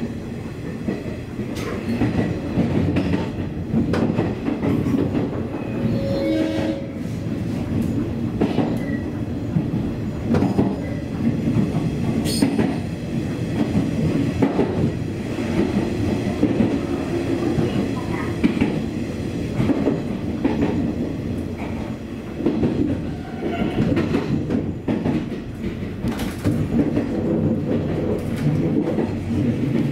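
185 series electric train running, heard from inside the driver's cab: a steady rumble from the running gear with wheels clicking over rail joints.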